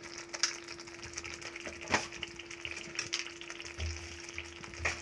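Masala gravy sizzling gently in a kadhai, with about four sharp knocks of the steel ladle against the pan, over a steady hum.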